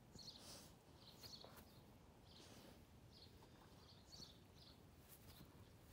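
Near silence, with faint birds chirping in short calls about once a second.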